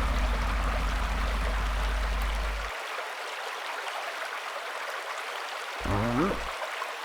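Waterfall rushing steadily, a deep low rumble under it cutting off suddenly a third of the way in. Near the end, a short low sound rising in pitch.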